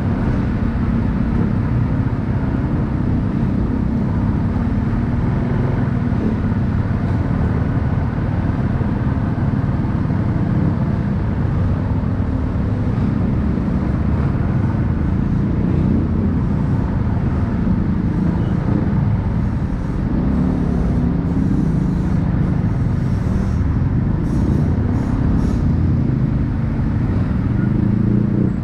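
A motorcycle engine runs steadily under a continuous low rumble of wind and road noise while riding, with a few light clicks late on.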